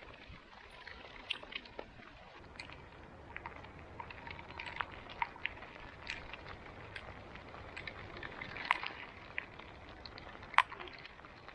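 Bicycle riding on a wet road in the rain: a steady hiss with many irregular small clicks and taps, and two sharper, louder clicks in the second half.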